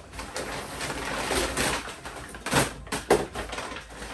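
Packs of clothes hangers being handled: a rustling of wrapping, with two sharp knocks about two and a half and three seconds in.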